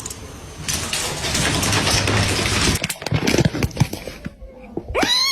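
Scuffling noise and a run of sharp knocks, then near the end a loud animal call that rises steeply in pitch and falls away.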